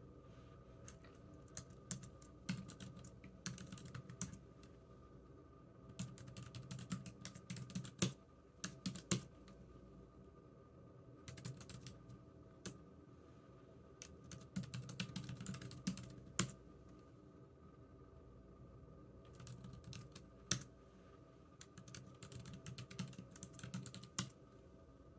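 Typing on a computer keyboard: quick runs of key clicks in bursts of a few seconds, with short pauses between them and the odd louder keystroke.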